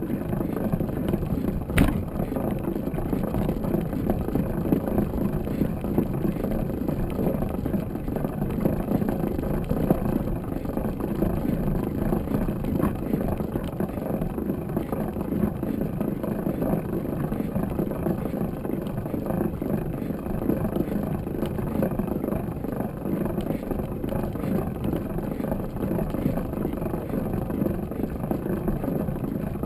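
Wind buffeting a camera microphone while riding a mountain bike: a steady low rushing, with a sharp knock about two seconds in.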